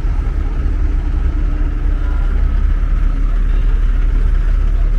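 Steady low rumble of an idling engine, from a road vehicle or a piece of heavy construction machinery, with a faint, even whine above it.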